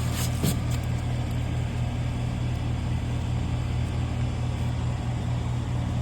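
Steady low machine hum, the same all the way through, with a brief clatter about half a second in.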